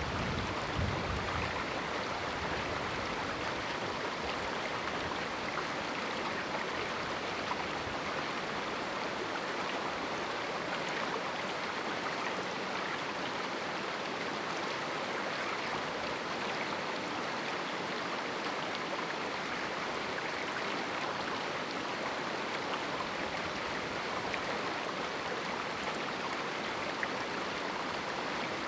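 Small canyon river flowing with a steady rush of water.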